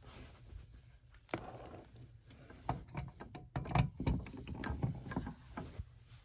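Irregular knocks, clicks and rustling, as of objects being handled and moved, with a cluster of louder knocks in the middle; no vacuum motor is running.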